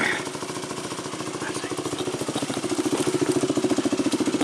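Dirt bike engine running with a steady rapid pulsing beat. It gets louder about two and a half seconds in as the throttle is opened for the crossing.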